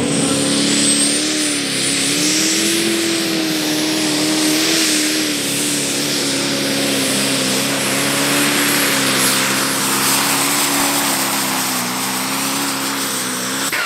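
Turbocharged diesel engine of a Pro Stock pulling tractor running hard at a steady high speed under load, with a faint high turbo whistle above the engine note. The sound cuts off abruptly at the end.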